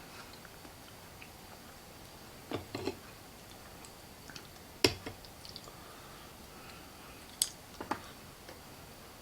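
A few scattered sharp clicks and light taps of shellfish shells being handled, five or so in all, the loudest about five seconds in, over a faint steady hum.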